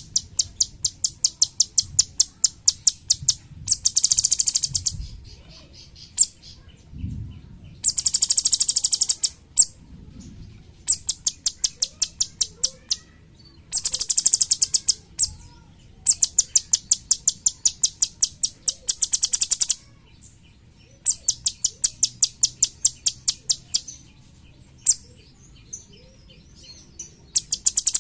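Cucak cungkok songbird calling in runs of rapid, high, sharp repeated notes, each run lasting a few seconds with short pauses between, some runs denser and louder than others.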